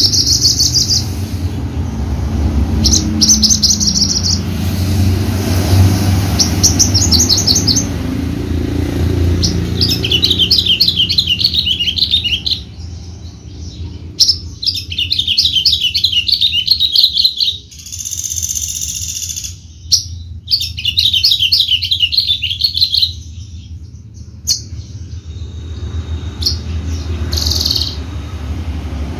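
Javan bushlark singing in repeated bouts of fast, rapidly repeated high notes, with a longer held note a little past halfway and a few sharp clicks. A low rumble sits under the song through the first half.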